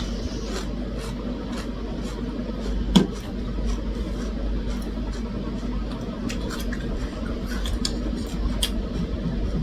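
Mukbang eating sounds: chewing, with scattered small clicks of utensils and dishes and one sharper click about three seconds in, over a steady low hum.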